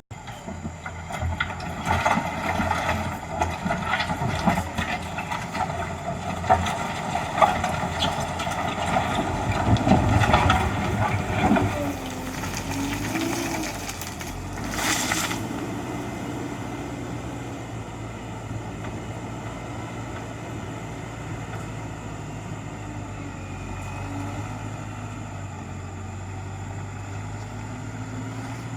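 JCB 3DX backhoe loader's diesel engine running steadily, with many knocks and rattles over the first dozen seconds or so while the sound is louder, and a short hiss about halfway through.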